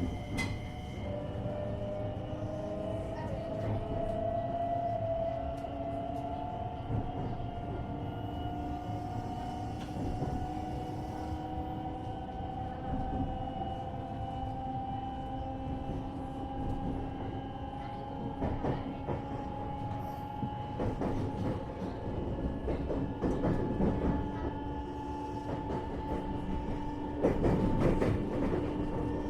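JR West 227 series electric train heard from inside a motor car, accelerating: the traction motor whine climbs slowly in pitch over the rumble of wheels on rail. Louder clatter from the wheels and rails comes in bursts toward the end.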